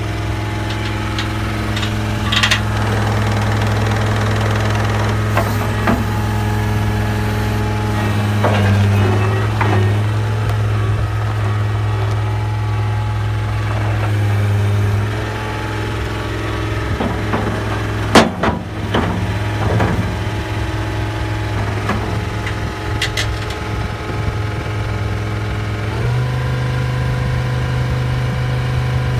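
John Deere 328D skid steer's diesel engine running steadily, with a few sharp metallic clanks, the loudest about two-thirds of the way through. Near the end the engine speed steps up a little.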